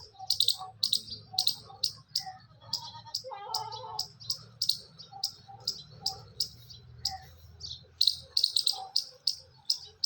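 Birds chirping: short, high chirps repeated about two to three times a second, with softer lower calls mixed in and a busier burst of calls a little over three seconds in.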